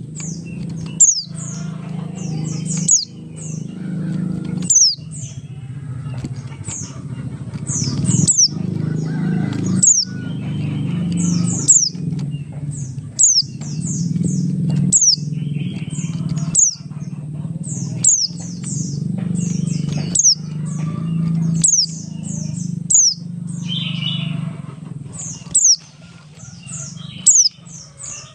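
Pleci Buxtoni white-eye singing a rapid run of short, high, falling chirps in quick clusters. A steady low rumbling noise runs underneath, cut by brief dropouts.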